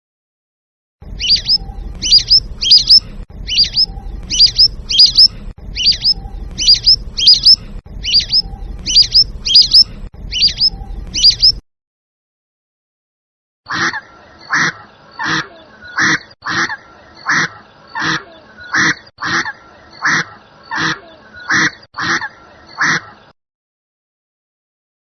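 Two different birds calling in turn: first a fast run of sharp, rising chirps about twice a second over a low rumble, then, after a short pause, a regular series of harsher calls about once a second.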